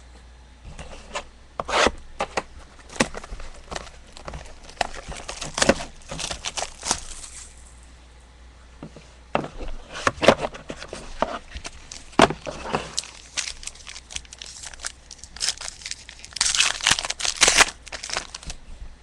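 Trading card boxes and packs being opened and the cards handled: a string of tears, rustles, scrapes and light taps, busiest near the end.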